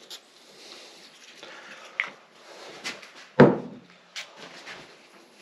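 Hand tools and engine parts being handled: rubbing and small clicks, a sharp click about two seconds in, and one loud knock about three and a half seconds in.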